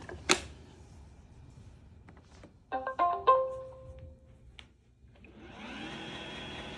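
iRobot Roomba i7 robot vacuum starting a spot clean: a sharp click, then its short start-up chime of a few electronic notes, and about five seconds in its vacuum motor and brushes spin up into a steady whir.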